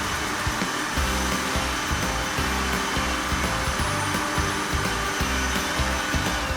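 Wind machine blowing a strong, steady rush of air, simulating the wind that hits a race-car driver at speed.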